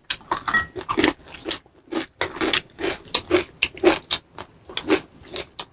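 Close-up chewing of crunchy fried food, an irregular run of crisp crunches a few times a second.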